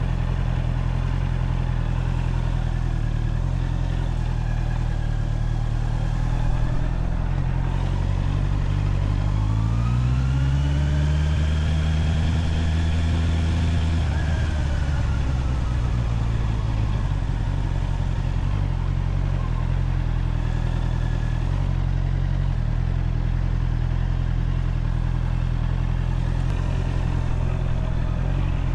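Honda CBR650R's inline-four engine idling steadily. About ten seconds in, an engine note rises in pitch, holds for a couple of seconds, then falls away.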